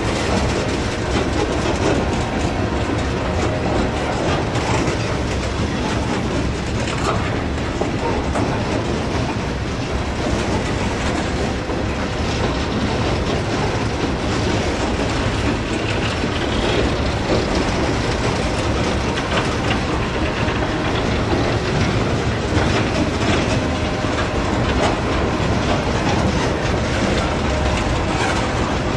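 Herzog ballast train hopper cars rolling steadily past: the continuous rumble of steel wheels on rail with the clickety-clack of wheels passing over rail joints.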